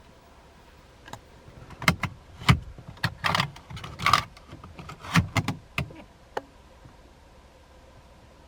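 A run of sharp clicks, knocks and light rattles from the car's interior fittings being handled, loudest in the middle seconds and stopping about two-thirds of the way through.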